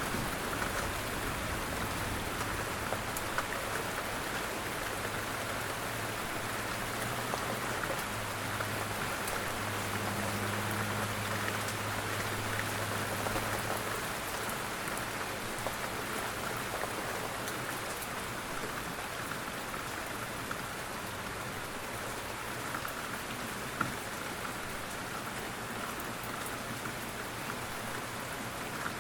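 Steady rain falling, a dense even hiss with scattered small drop ticks. A low hum sits underneath for about the first half.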